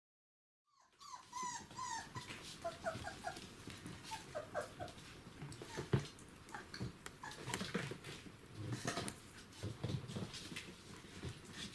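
Border collie puppies about five weeks old squeaking and whimpering, with small growls. The squeaks bunch together in the first few seconds, over a scatter of clicks and knocks.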